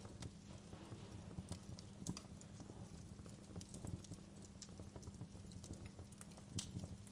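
Wood fire crackling: irregular small pops and snaps, with a few sharper snaps, over a steady low rumble of the burning fire.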